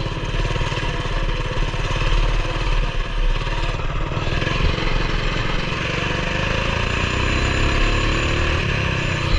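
Coleman BT200X mini bike's small single-cylinder four-stroke engine running, its pitch rising and falling with the throttle in the second half.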